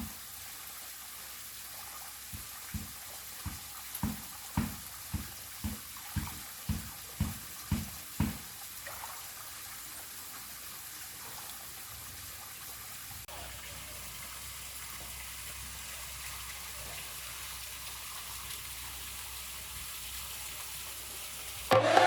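Steady rush of water from a waterfall and its stream, with a run of about a dozen soft low thumps, roughly two a second, over the first eight seconds.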